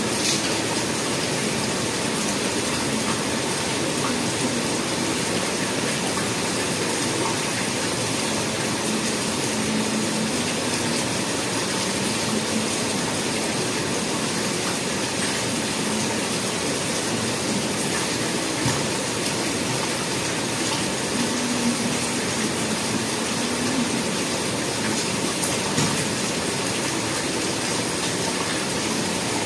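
Steady downpour of rain, an even hiss that holds level throughout, with a faint low hum that comes and goes now and then.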